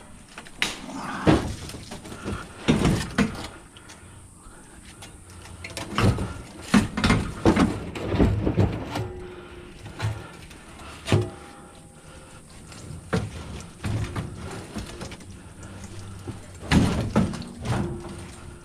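Scrap metal being handled and loaded: irregular clanks and bangs in clusters, some ringing briefly after the hit.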